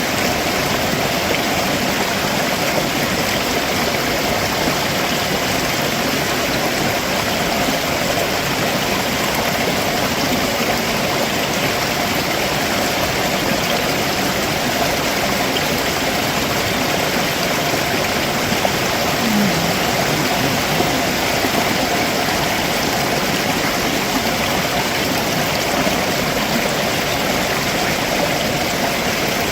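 Stream water flowing and splashing over rocks below a waterfall: a steady, unbroken rush.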